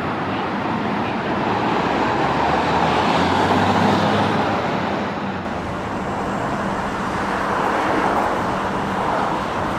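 Road traffic passing: a continuous rush of cars that swells twice as vehicles go by.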